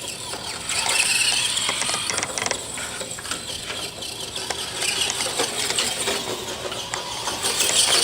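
Electric RC car's motor and gears whirring as it drives, with a rising whine about a second in and many small clicks and crunches throughout.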